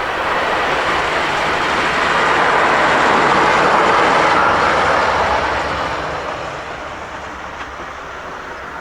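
Snowplow truck driving past, its noise swelling to a peak about three to four seconds in and then fading away.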